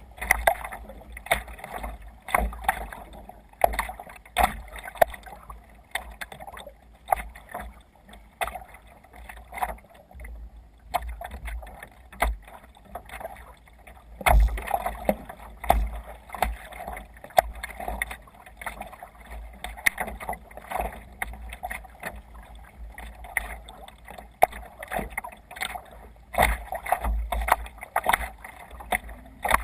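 Water splashing and slapping irregularly against a sea kayak's hull as it moves through small waves, with a low rumble underneath.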